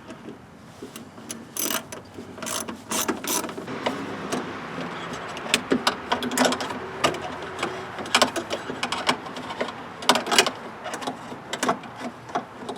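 Hand ratchet wrench clicking in short runs as bolts are backed out of a car door latch, with scattered metallic clicks and knocks.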